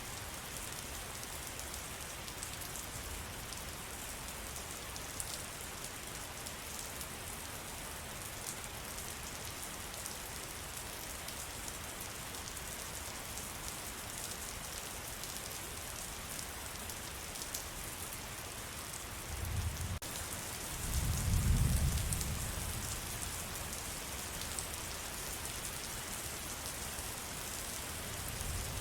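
Steady rain falling on forest foliage: an even hiss with scattered sharp drop ticks. About two-thirds of the way in, a low rumble swells for a few seconds and fades.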